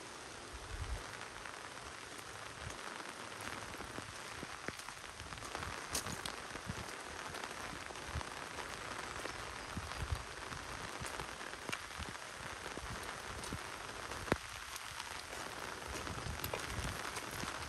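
Steady rain falling on leaves, grass and a wet gravel path, with many scattered louder drop hits, one much sharper about fourteen seconds in, and occasional soft low thumps.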